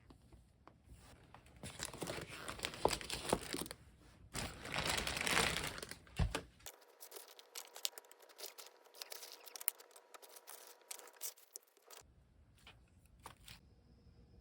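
Crinkling and rustling, as of something being handled and crumpled, loudest in the first half; after an abrupt change about seven seconds in, lighter scattered crackling ticks.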